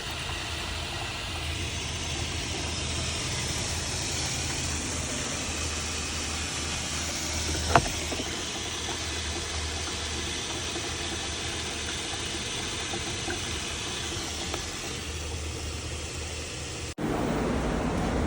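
A motor running steadily with a hiss over it, one sharp click about eight seconds in, then a sudden cut near the end to a louder rushing sound.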